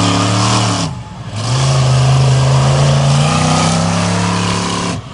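Monster truck engine at high revs, in two long pulls. It holds high for about a second and dips briefly, then climbs again and holds, stepping up once more partway through, and cuts off sharply near the end.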